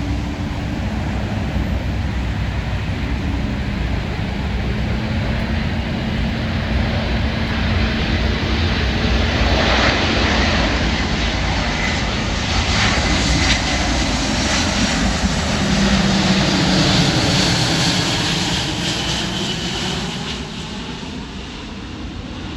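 Boeing C-17A Globemaster III's four Pratt & Whitney F117 turbofans on landing: a steady jet rumble that swells as the aircraft passes, with a sweeping, phasing tone, then fades near the end.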